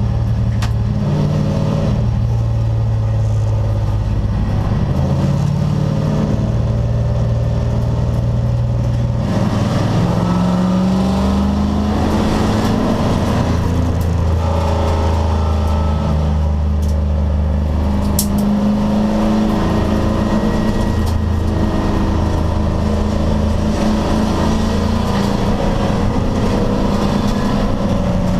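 American Sedan class race car's V8 engine running hard under racing load, its pitch climbing and dropping as the car accelerates, shifts and lifts.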